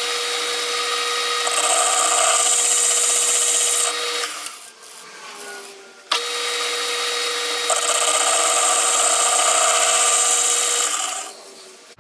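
Metal lathe running while a boring bar cuts inside a brazed-up cast-iron mower spindle housing: a steady whine under the harsh hiss of the cut. The sound drops away about four seconds in, comes back abruptly about two seconds later, and fades out near the end.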